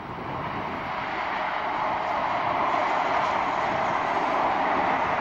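Express passenger train running past at speed, its rolling noise growing steadily louder as it approaches.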